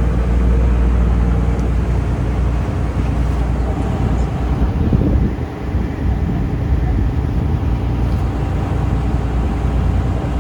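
A taxi boat's engine running steadily under way, with rushing wind and water noise.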